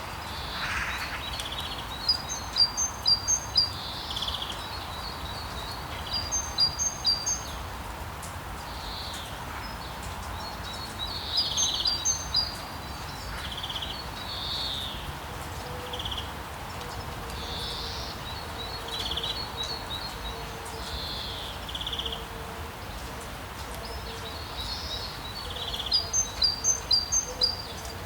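Songbirds calling, with several short bursts of quick, high repeated notes and scattered single chirps, over a steady wash of background noise from the sea.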